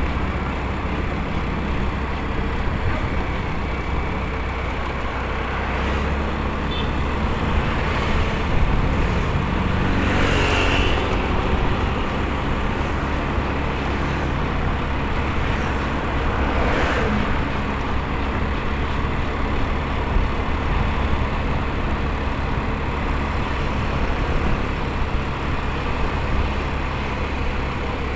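Motorcycle riding on a road: a steady low engine-and-wind rumble, with other vehicles swelling past a few times, the clearest about ten seconds in.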